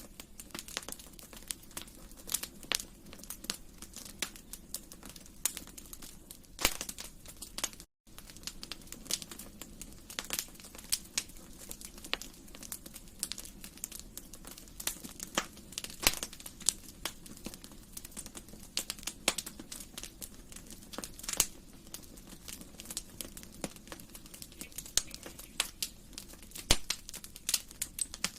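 Wood fire in a fireplace crackling, with irregular sharp pops and snaps over a steady low hiss of burning. There is a split-second gap in the sound about eight seconds in.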